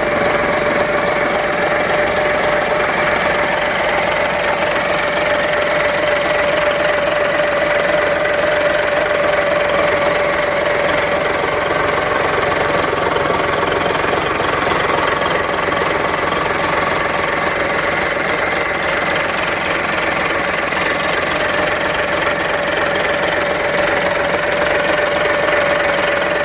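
Caterpillar 3406C inline-six diesel engine running steadily on a test run, with a steady high whine over the engine noise.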